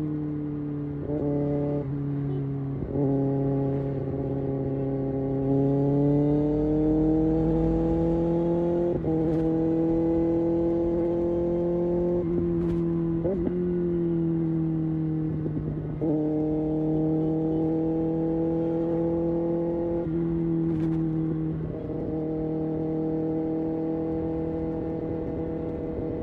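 Kawasaki Ninja ZX-6R inline-four engine and exhaust under way, the revs rising and falling with several abrupt jumps in pitch.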